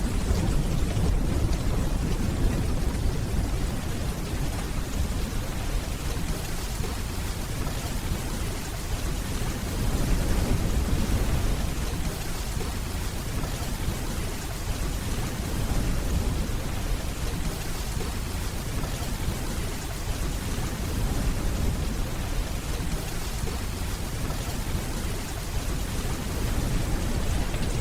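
Steady heavy rainfall with low rolling thunder rumbling underneath, swelling a few times.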